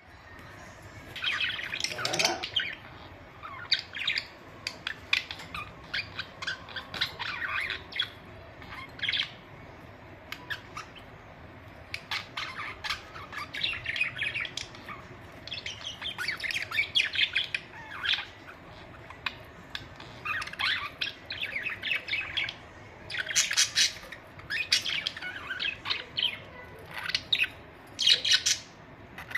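Pet budgerigars chattering in irregular bursts of rapid, warbling chirps, with short pauses between bursts.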